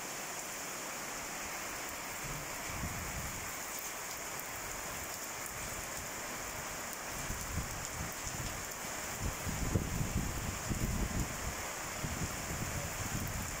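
Heavy rain falling steadily on the street and buildings, a constant hiss. Low, irregular rumbles swell in about halfway through and are loudest a little past the middle.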